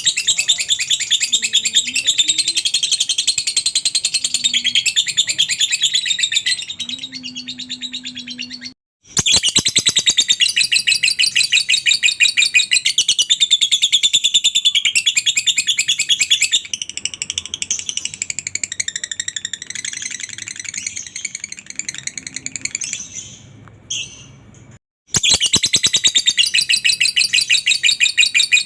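Lovebird giving its long 'ngekek' chatter: a loud, high-pitched rattling trill of very rapid notes held for many seconds at a time, breaking off suddenly twice.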